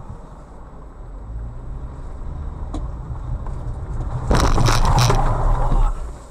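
Car driving, heard as a steady low rumble of road and engine noise that slowly grows louder. About four seconds in, a sudden loud rattling burst lasting about a second and a half cuts across it, then falls back to the rumble.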